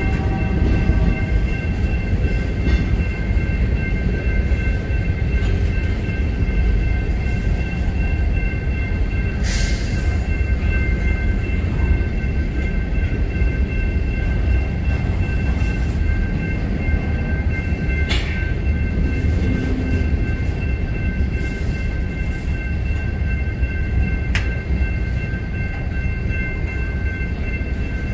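A long freight train rolling past at speed: a steady heavy rumble of railcars on the rails, with a steady high-pitched ringing over it. A locomotive horn trails off in the first half-second, and a few sharp clanks come through around ten, eighteen and twenty-four seconds in.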